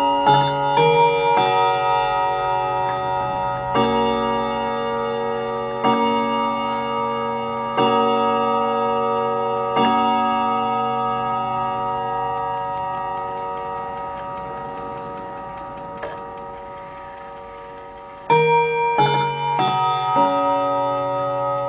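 Mantel clock chiming. A quick run of chime notes is followed by four slower strikes about two seconds apart, whose ringing slowly dies away under the clock's ticking. About eighteen seconds in, another quick run of chime notes begins.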